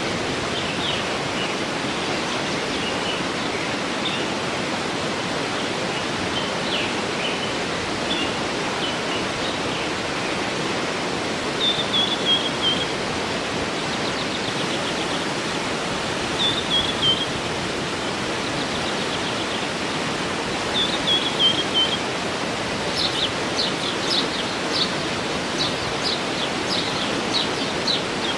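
Waterfall running steadily, with birds singing over it. There are scattered chirps, then a short falling phrase three times, and a run of quick high chirps near the end.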